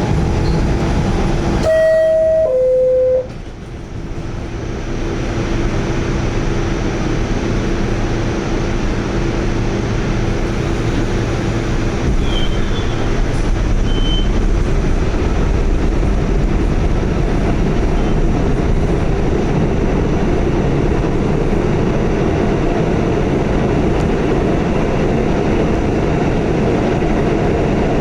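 Pullman-Standard R46 subway car: a two-note descending door chime about two seconds in, the signal that the doors are closing. After a short dip, the car's running rumble builds and then holds steady and loud.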